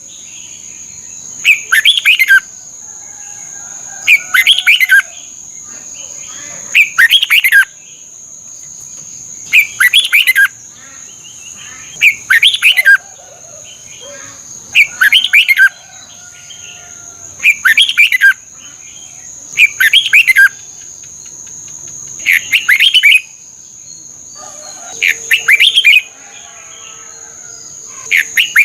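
Red-whiskered bulbul singing: short, loud song phrases repeated about every two and a half seconds, with softer notes between them. A steady high-pitched whine runs underneath.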